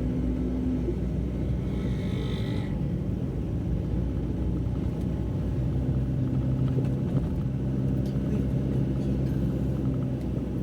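A car driving, heard from inside the cabin: a steady low engine and road rumble, the engine hum dropping in pitch about halfway through. A brief higher-pitched tone sounds about two seconds in.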